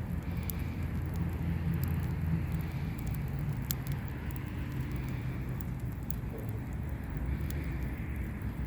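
Bonfire crackling: scattered sharp pops over a steady low rumble.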